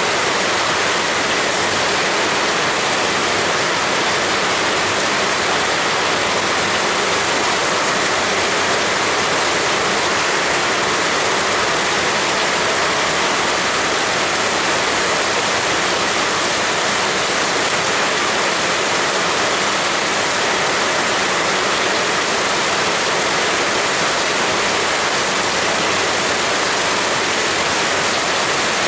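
Heavy rain falling steadily, a dense unbroken hiss with no thunder or distinct drops standing out.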